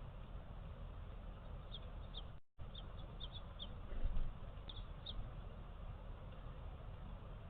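Small birds giving short, high chirps, about eight of them in a loose series, over a steady outdoor hiss. The sound drops out completely for a moment partway through, and a low thump about four seconds in is the loudest sound.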